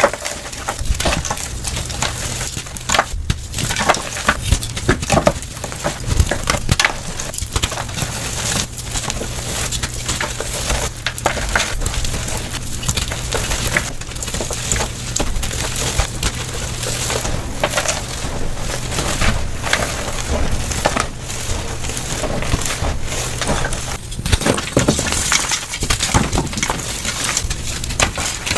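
Gym chalk being crushed, a dense, continuous crunching and crackling, sped up to double speed.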